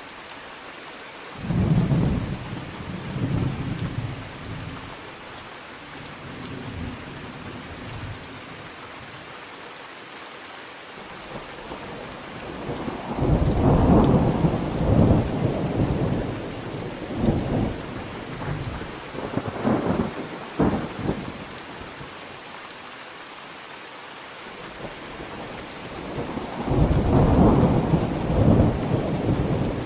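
Thunderstorm: steady rain with three peals of thunder. A sudden clap about a second and a half in rumbles away over a few seconds, a long rolling peal with several crashes fills the middle, and another peal builds near the end.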